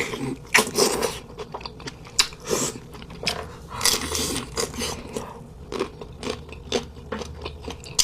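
Close-miked eating: irregular crunching and chewing sounds as a person bites into and chews food.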